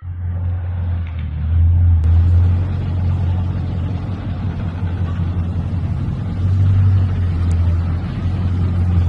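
A car engine's low, steady rumble that starts abruptly and swells louder twice, about two seconds in and again near seven seconds.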